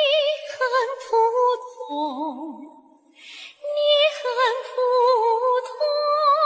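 A song with a woman singing long held notes with a wavering vibrato, pausing briefly about halfway through.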